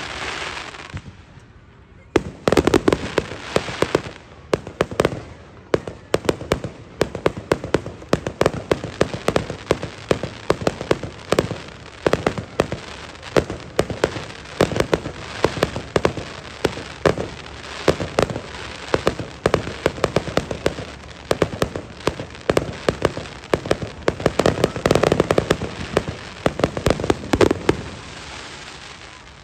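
Fireworks display: aerial shells bursting in quick succession, a dense run of bangs and crackling, with louder bursts about three seconds in and again near the end before it thins out.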